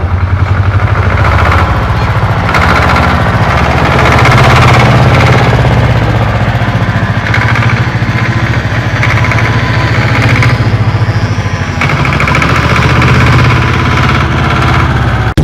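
An engine running steadily with a fast, even chugging pulse.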